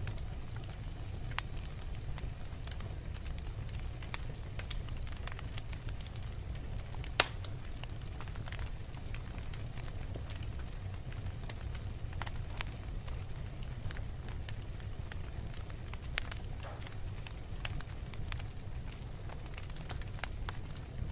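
Wood logs burning in a fireplace: a steady low rumble of the flames with scattered sharp crackles and pops, one much louder pop about seven seconds in.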